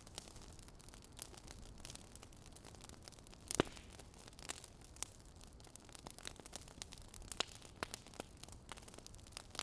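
Crackling fire: irregular small pops and snaps over a faint hiss, with one louder pop about three and a half seconds in.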